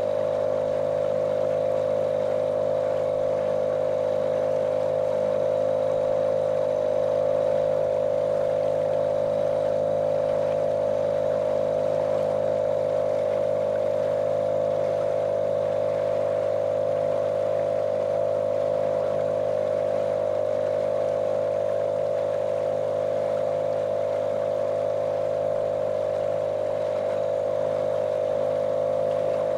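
Small motorboat's motor running at a steady, unchanging speed: a monotonous drone with a strong hum and lower steady tones, no rise or fall in pitch.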